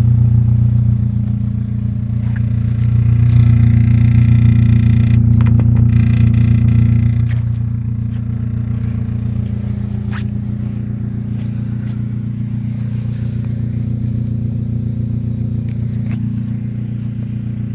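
2003 Kia Spectra GSX's four-cylinder engine idling, its exhaust heard at the tailpipe through an upturned aftermarket tip as a steady low hum. It swells louder for a few seconds about three seconds in, then settles back.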